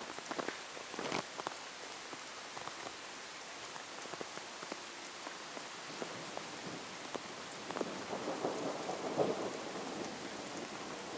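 Light rain falling as a thunderstorm passes, a steady hiss with scattered raindrop ticks and drips. A louder swell of noise lasts about a second and a half, some eight seconds in.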